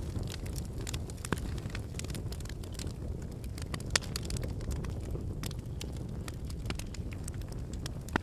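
Campfire burning: a steady low rush of flames with irregular crackles and pops of burning firewood, the sharpest pop about four seconds in.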